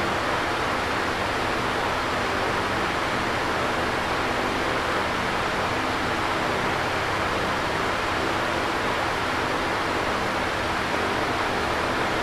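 Electric fan running steadily: a constant whoosh of moving air with a faint low hum from the motor.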